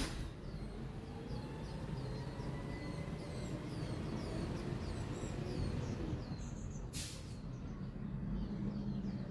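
Small birds chirping, many short high chirps repeated throughout, over a steady low rumble. A sharp click about seven seconds in.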